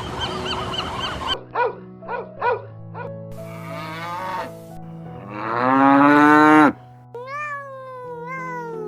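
A string of farm animal calls: a busy patch of short chirps, three short calls, then one long loud call rising in pitch about two thirds of the way in, and two falling calls near the end, over steady background music.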